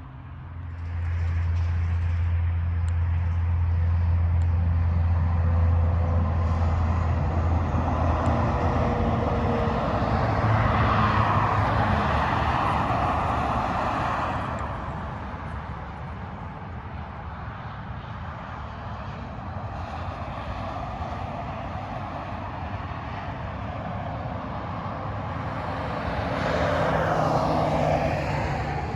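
Freeway traffic: a heavy vehicle's low engine drone early on, then vehicles passing with tyre and road noise swelling and fading, one pass loudest about halfway through and another near the end with a falling pitch as it goes by.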